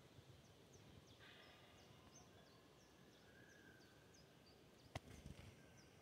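Faint outdoor quiet with small birds giving quick, high chirps over and over. About five seconds in there is one sharp click followed by a few low bumps.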